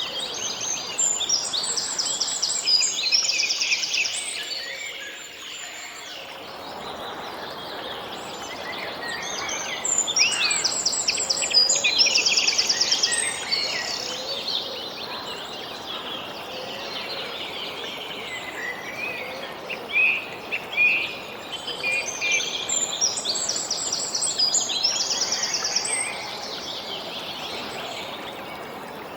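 Songbirds singing outdoors, one song phrase with quick trills coming back about every ten to twelve seconds over a steady background hiss.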